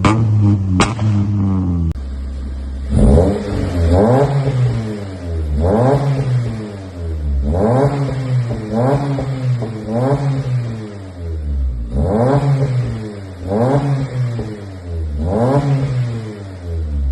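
Honda Civic EP2's four-cylinder engine revved repeatedly through its exhaust: about nine quick blips, each rising in pitch and falling back, roughly one every second and a half. It is preceded by a couple of seconds of steady engine running with a few sharp pops.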